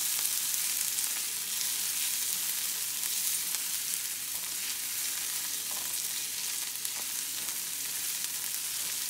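Diced onion and garlic sizzling in hot olive oil in a frying pan, stirred with a silicone spatula: a steady high hiss with faint scattered crackles and clicks.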